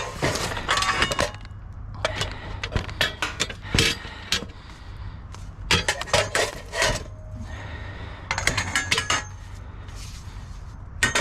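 Loose scrap metal clanking and clinking in bursts of knocks and rattles, with a few brief ringing notes, as pieces are pulled out of a dumpster and moved.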